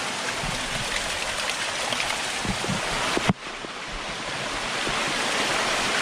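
Waterfall rushing and splashing, a steady hiss of falling water. About three seconds in there is a sharp knock, and the level drops suddenly before the rush builds back up.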